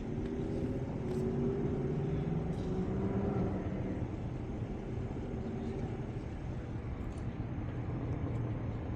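A motor vehicle engine running, its pitch rising slightly over the first few seconds and then settling into a steady low hum, over constant street noise.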